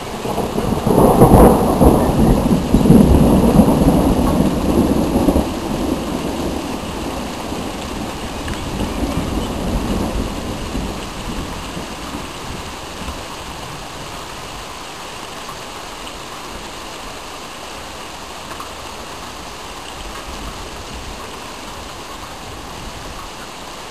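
A thunderclap rolling and rumbling for several seconds, loudest a second or two in and fading away over about ten seconds, with a smaller swell near the middle. Steady rain hisses throughout.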